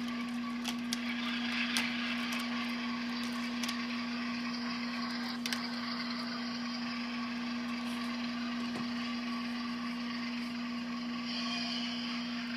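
HO-scale ES44AC model diesel locomotives running as a consist, their DCC sound decoders playing a steady diesel engine drone through small speakers. A few light clicks come in the first half.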